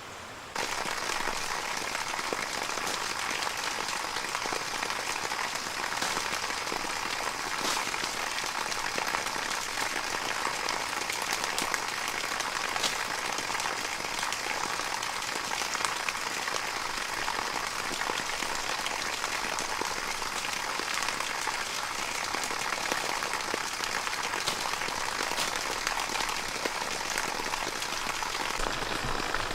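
Falling water pattering steadily, like heavy rain on a surface, starting abruptly about half a second in.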